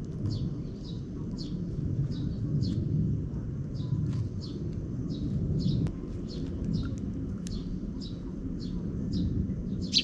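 Sparrow chicks chirping repeatedly, short high chirps about two to three a second, typical of fledglings begging while a parent feeds them. A steady low rumble runs underneath.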